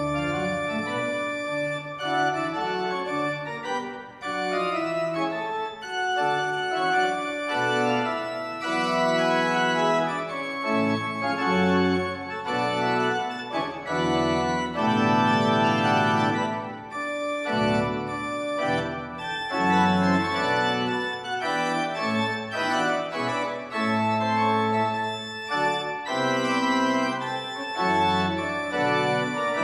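Church organ playing a postlude after the benediction: full held chords over a moving bass line, the notes changing every second or so.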